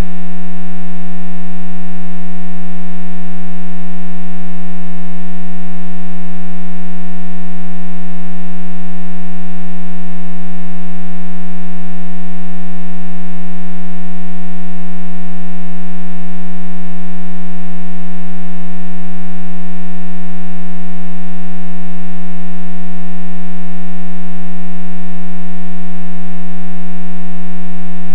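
A loud, steady electrical hum at one low pitch with a buzzy edge. It does not change at all, the kind of hum an audio feed picks up from a ground loop or interference.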